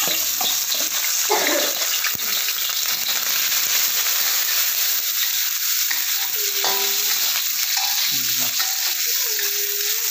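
Chopped pieces sizzling steadily in hot cooking oil in a steel wok, stirred with a metal ladle that scrapes the pan.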